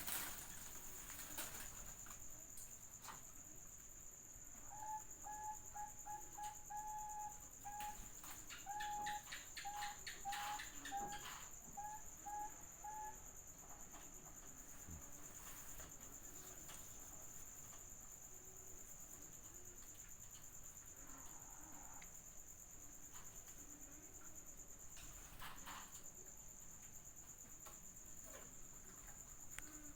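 Zebra dove (perkutut) cooing: a run of about fifteen short, clipped notes, some held a little longer, lasting about eight seconds from roughly five seconds in. A cricket's steady high-pitched trill runs throughout.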